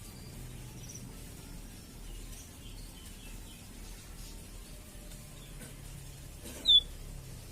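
A bird's faint, scattered short chirps over a low steady hum, with one loud, sharp chirp about six and a half seconds in.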